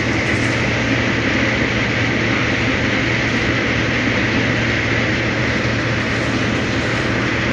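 Steady engine drone with a constant low hum, running evenly without change.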